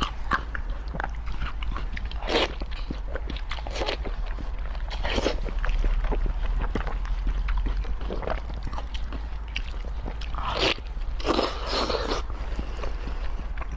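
Close-up eating sounds: a person chewing and biting food, with many small mouth clicks and several louder moments of crunching, the strongest about ten to twelve seconds in, over a steady low hum.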